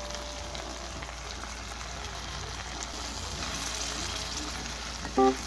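Shrimp frying in garlic butter in a pan, a steady sizzle while tomato sauce is poured in and stirred. A short keyboard chord of background music comes in near the end.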